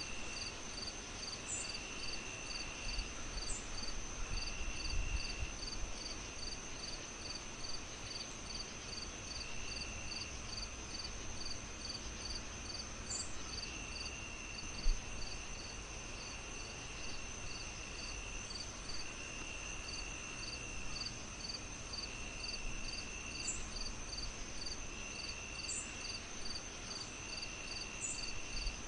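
A cricket and insect chorus: a steady high trill, regular chirps about two a second, and on-off trills a second or two long, over a low even rumble, with one brief thump about halfway through.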